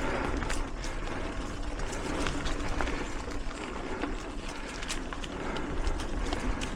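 Mountain bike riding along a dirt singletrack trail: steady tyre and wind noise with scattered sharp clicks and rattles from the bike over the ground.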